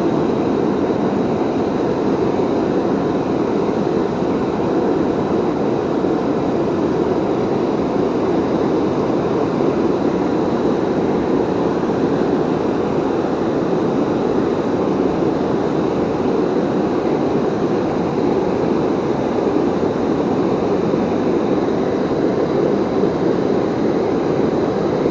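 Waterfall rushing with a steady, unbroken noise, deepest and strongest in its low-middle range.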